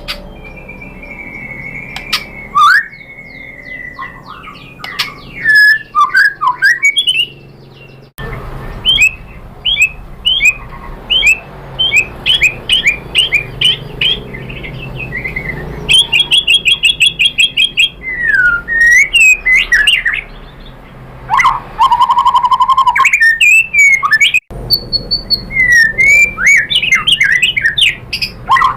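White-rumped shama singing a varied song of loud whistled phrases, quick up-and-down glides and fast runs of repeated notes, with a long held whistle near the start. The song breaks off abruptly twice, as if spliced.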